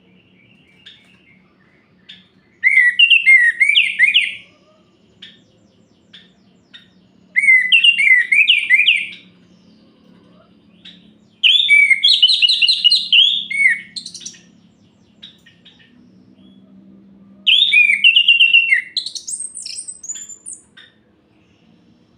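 Orange-headed thrush singing: four phrases of rapid notes that rise and fall, each about two seconds long, with pauses of a few seconds between them.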